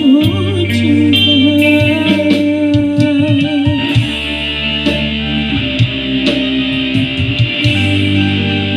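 Music with a plucked guitar melody over a heavy, sustained bass line, played through a 6-inch speaker box as a sound test.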